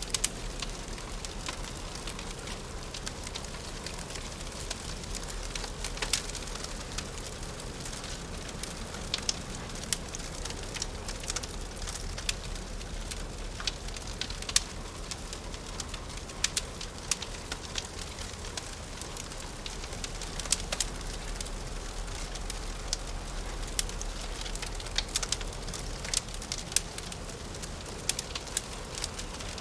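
Wood fire crackling in a fireplace: irregular sharp pops and snaps over a steady low hiss and rumble.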